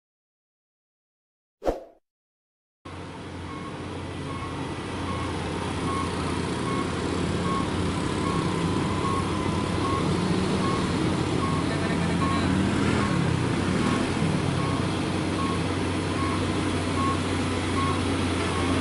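Diesel engine of a heavily loaded truck running under load on a steep climb: a steady low drone with road noise that builds over the first few seconds, and a faint beep repeating about twice a second. It begins after about three seconds of silence broken by one short click.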